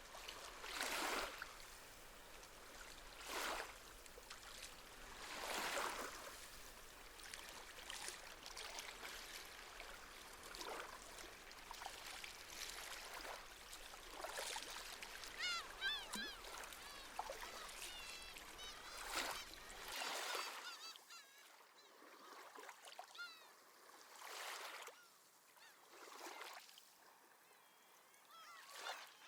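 Gentle sea waves washing in, a swell of surf every few seconds. Seabirds call in quick, wavering cries about halfway through, then more faintly a little later.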